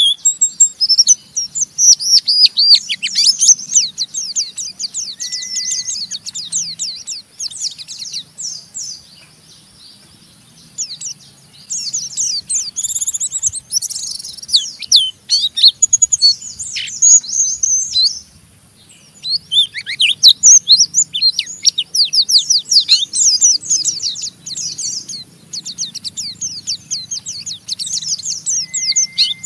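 White-eye (pleci) singing its rough, rapid 'ngeriwik' twitter: fast runs of high, quick down-sweeping notes, broken by two short pauses, about a third and two-thirds of the way through.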